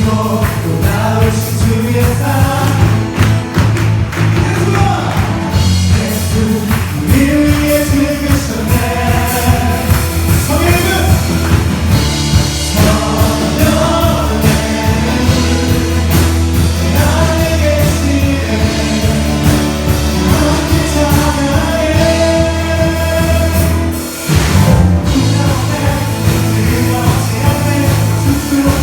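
Worship band playing a praise song live: voices singing a melody over a full band with bass and a steady drum beat. Near the end the band drops out briefly, then comes back in.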